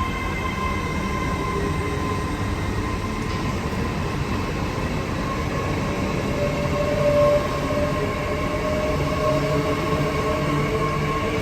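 Train moving through a station: a steady high whine over a low rumble, with a brief louder tone a little past halfway.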